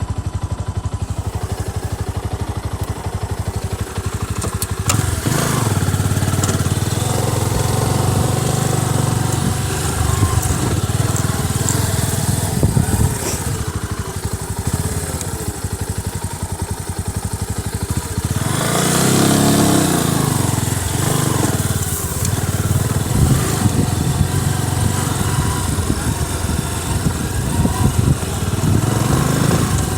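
Motorcycle engine running while being ridden. It gets louder about five seconds in, and its pitch rises and falls again about two-thirds of the way through as the speed changes.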